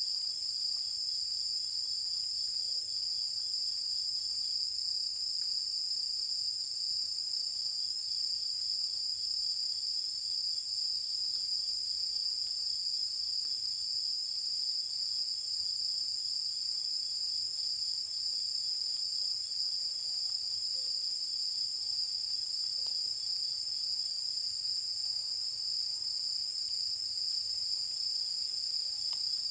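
A chorus of night insects singing without pause in the countryside: several steady, high-pitched trills layered together, with a fainter pulsing chirp beneath them.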